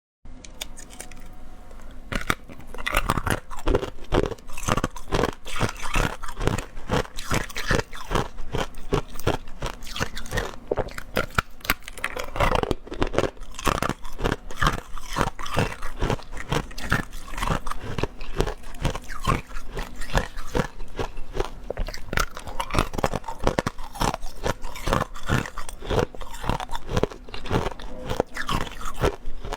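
Ice being bitten and chewed close to the microphone: a quick, continuous run of sharp crunches, several a second, starting about two and a half seconds in after a few quieter sounds.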